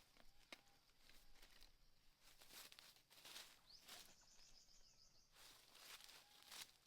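Near silence outdoors: faint scattered rustles and light clicks, with a faint high bird chirp and a short rapid trill about four seconds in.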